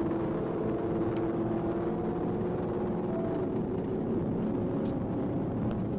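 A steady engine drone with a constant hum and noise, with no clear changes.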